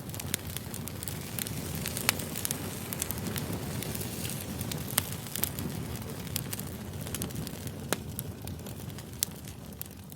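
Campfire burning with a steady low rush and frequent sharp, irregular crackles and pops, beginning to fade near the end.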